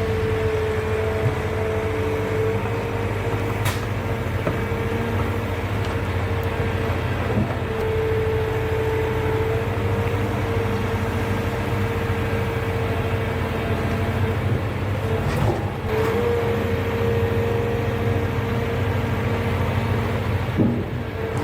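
Ponsse Elk forwarder running steadily under a steady whine, with a few sharp knocks, the loudest near the end.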